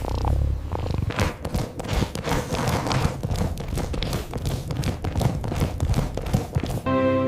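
A rapid, irregular run of light taps and clicks. A held musical chord comes in near the end.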